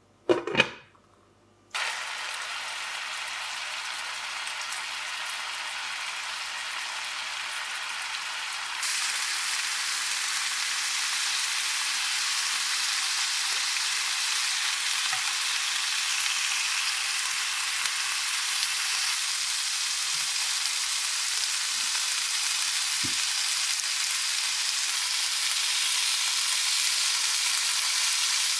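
A brief double knock, then sizzling in a hot pan that starts suddenly about two seconds in and grows louder near nine seconds: food frying in hot fat.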